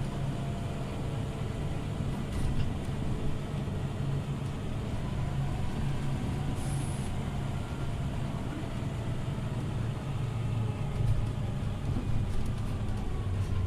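Scania OmniLink CL94UB city bus heard from inside the cabin: the engine runs with a steady low drone and faint pitch glides. A short high hiss comes about halfway through.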